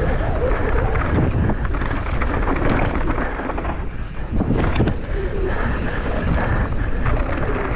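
Wind buffeting an action camera's microphone at speed, with a mountain bike rattling and knocking over rough ground.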